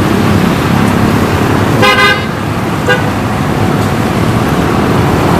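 A vehicle horn toots briefly, followed by a shorter second toot about a second later, over a steady rushing background noise.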